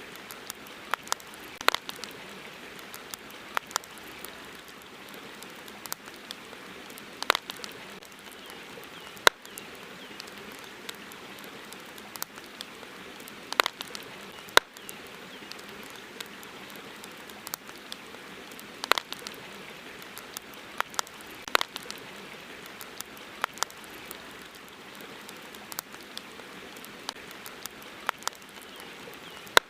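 Campfire crackling: sharp, irregular pops every second or few over a steady hiss.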